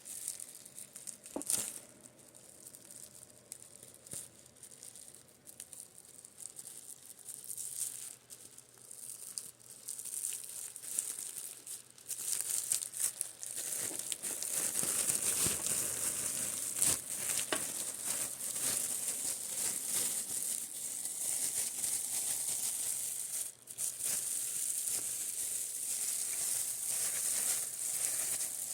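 Makeup brushes tapped and brushed close to the microphone: quick crisp taps and the crackly scratch of bristles, sparse at first and denser and louder about halfway through. A fan runs low underneath.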